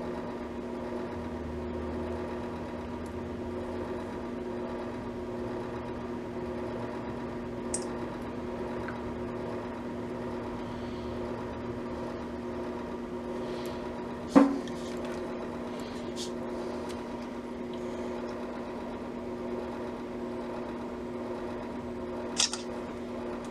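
Steady electrical hum at mains multiples in a small workshop, with a few sharp clicks and knocks from handling parts on the bench. The loudest click comes about halfway through.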